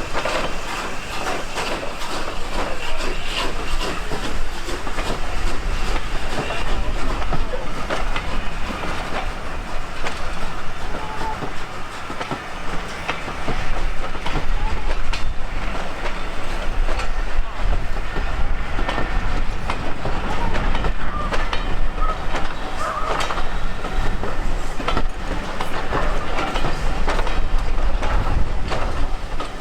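Heritage railway train running past, a steady rumble with wheels clicking over rail joints throughout.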